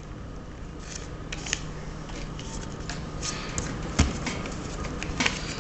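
Square of origami paper being folded and creased by hand: scattered short crinkles and rustles, with one sharper knock about four seconds in.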